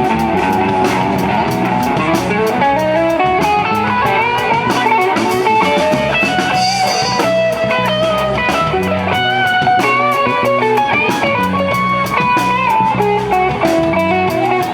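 Live band playing an instrumental passage: a guitar lead line over bass and drum kit, with no singing.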